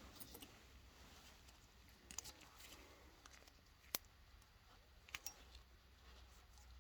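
Near silence, broken by a few faint, sharp clicks and taps of small objects being handled, the clearest about four seconds in.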